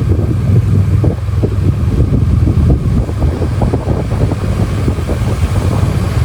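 Wind rumbling and buffeting on the microphone over a motorcycle's running engine and road noise while riding, steady and loud throughout.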